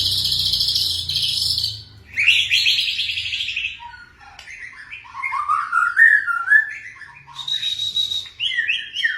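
White-rumped shama (murai batu) singing a dense, rapid-fire song in the style keepers call 'nembak rapat grojok'. Long, fast high trills come first, then lower, varied whistled phrases and glides, and a held high note with more trills near the end.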